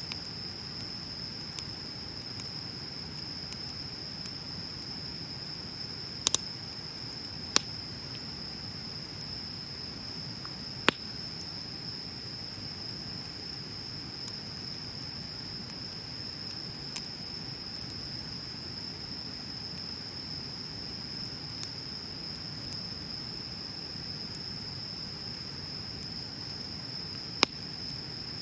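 Wood bonfire burning with a low steady rustle and a few sharp, loud pops from the burning wood, one of them a quick double. A steady high-pitched trill runs underneath.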